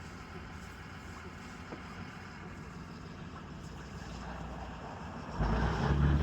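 Steady low street background, then a little over five seconds in a motor vehicle's engine rises loud as it drives close by.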